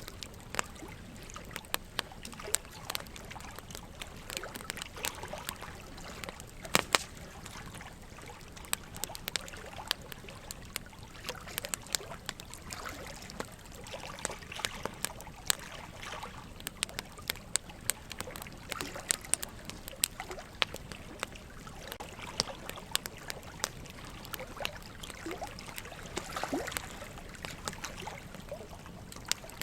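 Wood fire crackling, with irregular sharp pops and snaps, over a steady trickle of running water.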